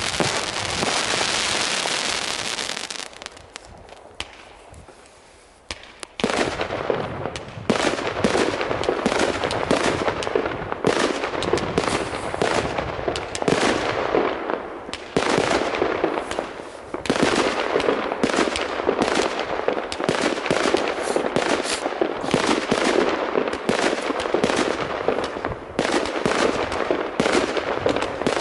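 Fireworks going off: a dense hissing crackle for about the first three seconds, then a brief lull. From about six seconds in comes a continuous rapid barrage of bangs and crackles.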